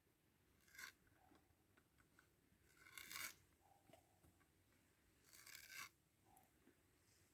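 Three faint, short scraping strokes, about two and a half seconds apart.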